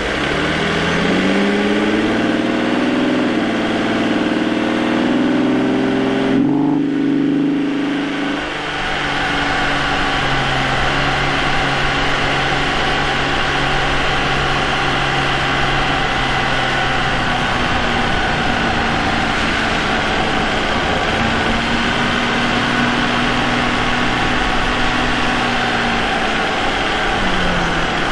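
Vauxhall Omega's 3.2-litre 24-valve V6 (Y32SE) pulling under acceleration, its note rising over the first few seconds. The note changes abruptly about six seconds in, then holds steady at cruise for most of the time and falls near the end as the car slows. It is picked up by a microphone in the engine bay next to the K&N air filter, so intake sound is prominent.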